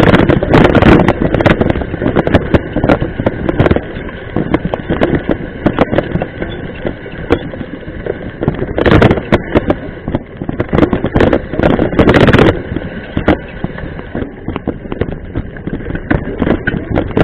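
Mountain bike rattling and knocking over a rough trail, with wind buffeting the microphone; louder stretches of rushing noise about nine and twelve seconds in.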